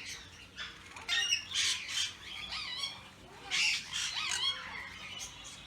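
Birds squawking: several short harsh calls, the loudest about a second in and near four seconds, with thinner whistling calls between them.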